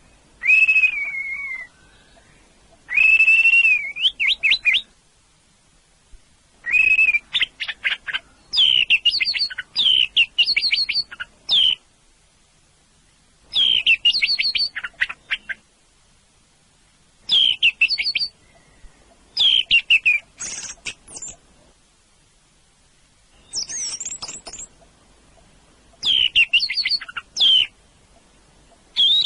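Orange-headed thrush (anis merah) singing: a string of short phrases of clear whistles and quick trilled notes, each phrase one to three seconds long, with pauses of a second or two between them.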